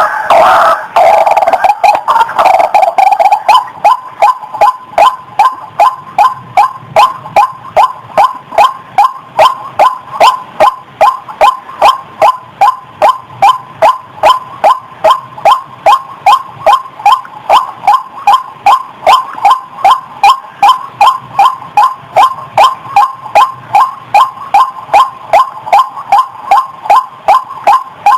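White-breasted waterhen (ruak-ruak) calling: a jumbled burst of croaking notes that settles after about three seconds into a long, steady run of loud repeated notes, about three a second.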